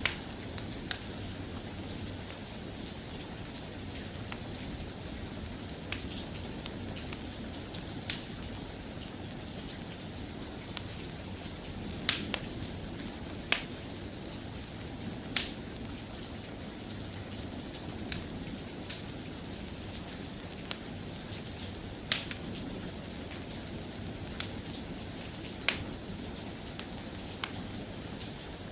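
Steady soft rain, with sharp pops scattered through it at uneven intervals a second or more apart.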